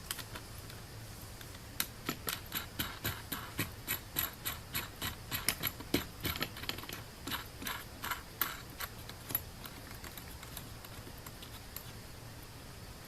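A run of sharp metallic clicks, about three a second, starting about two seconds in and stopping after some eight seconds.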